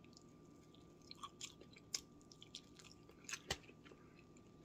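A person chewing a bite of crispy fried fish close to the microphone: scattered small wet clicks and smacks of the mouth, with one louder knock about three and a half seconds in.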